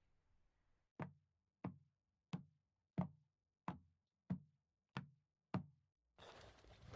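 Eight evenly spaced knocks, about one and a half a second, each short and dying away fast; a steady noise sets in near the end.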